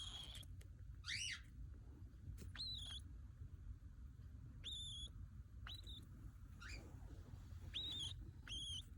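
Baby cockatiel calling: about eight short, whistled chirps, each sweeping up quickly and then held for a moment, at irregular intervals of about a second.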